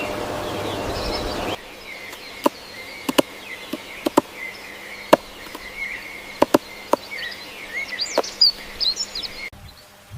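Outdoor ambience of insects chirring and small birds chirping, with about nine sharp clicks scattered through it. The sound changes abruptly about a second and a half in and again near the end.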